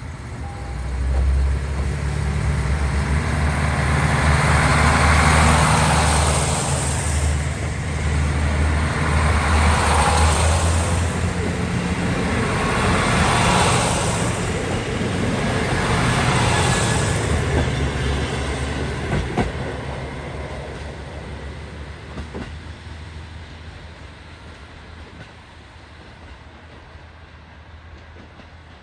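A diesel railcar train pulling away from a station and passing close by: the engine drones under acceleration while four swells of wheel and bogie noise come as the cars roll past. From about 18 seconds in, the sound fades steadily as the train draws away.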